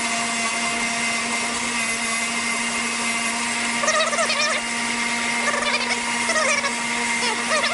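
A motor-driven wire wheel running steadily with a constant hum, and the rusty steel head bolt being pressed against the wires in scraping bursts about four seconds in, again around six seconds and near the end, to clean the rust off.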